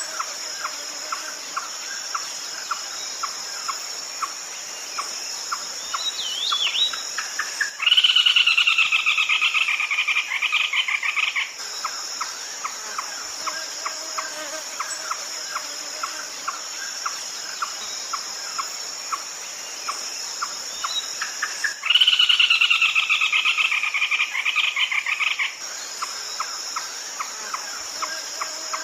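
Red-legged crake calling: a steady series of short notes about twice a second, broken twice, about eight and twenty-two seconds in, by a loud rapid chattering phrase lasting about three and a half seconds. A constant high insect drone runs beneath.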